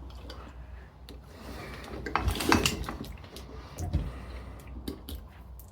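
Small metal hand tools clinking and scraping against the parts of an electric drill as it is taken apart: scattered sharp clicks and scrapes, busiest about two to three seconds in, over a low steady hum.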